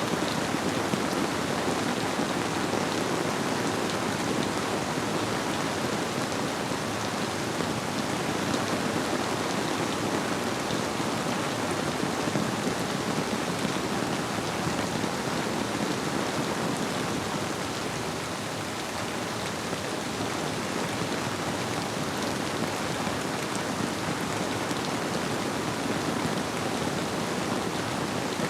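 Steady rainfall, an even unbroken hiss of drops, blended with the flow of a river.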